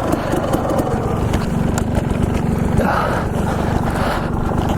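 Dirt bike engine running steadily at an even pitch.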